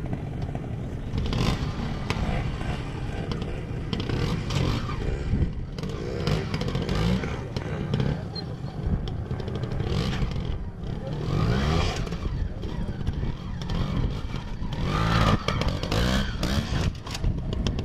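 Classic twin-shock trials motorcycle engine running at low speed, revving up and dropping back in several short bursts as the rider works the throttle over rocky ground.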